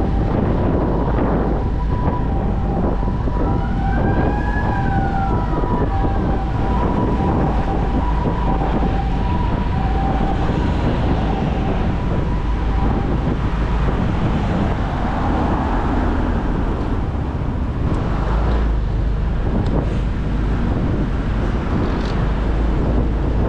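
Wind and road noise from a moving motorcycle, with a two-tone hi-lo emergency vehicle siren alternating between two pitches for the first half or so before fading out.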